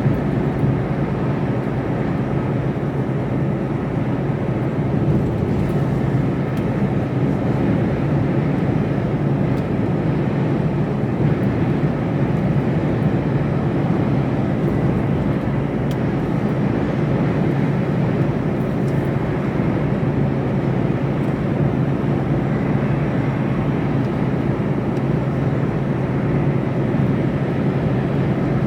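Mercedes Actros lorry cruising at a steady speed, heard from inside the cab: a constant low engine drone with road and tyre noise.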